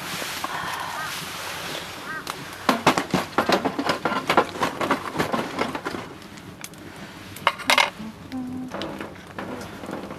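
An eating utensil clinking and scraping against a cooking pot: a quick run of clinks for about three seconds, then another short clatter near the end.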